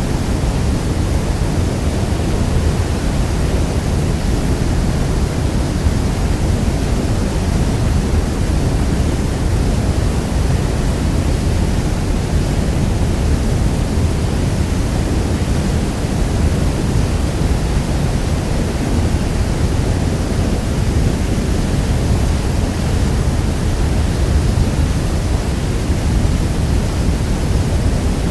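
The steady rush of water falling at Niagara Falls: a dense, even noise, heaviest in the low end, that does not change.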